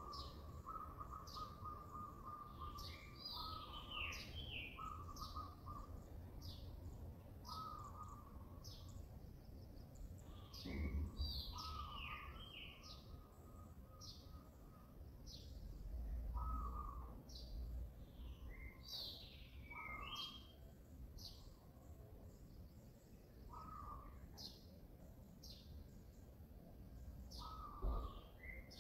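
Wild birds calling: faint, repeated short chirps that drop in pitch, about one a second, over longer held notes. A few low rumbles come in about eleven seconds in, around sixteen seconds in and near the end.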